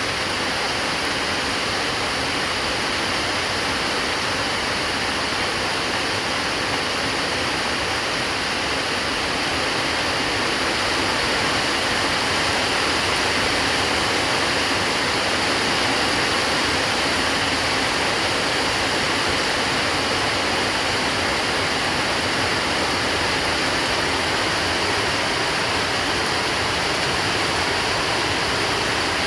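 Heavy rain pouring down steadily, a dense, even hiss that grows slightly louder about ten seconds in.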